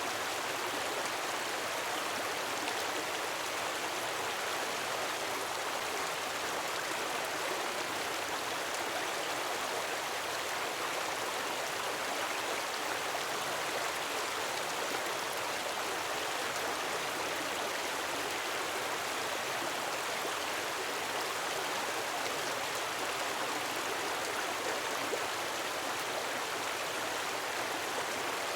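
A gentle waterfall splashing: a steady, even rush of falling water with no breaks or swells.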